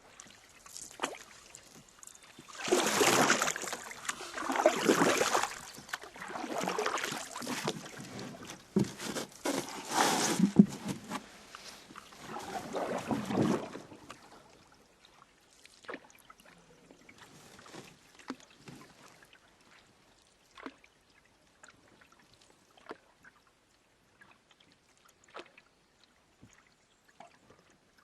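Canoe paddle strokes swishing through the water, about five of them in the first half, then quieter drips and light taps.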